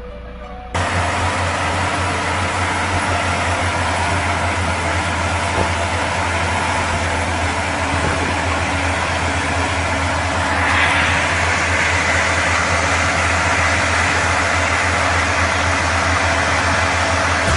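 A heavy vehicle's engine running with a steady low drone under a broad rushing noise, cutting in suddenly just after the start; the hiss grows louder about ten seconds in.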